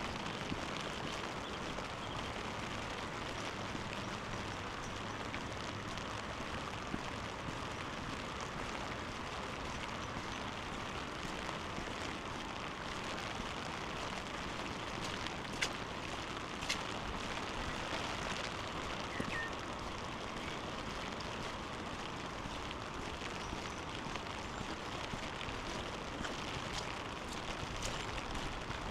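Steady rush of water, with a couple of sharp ticks a little past halfway.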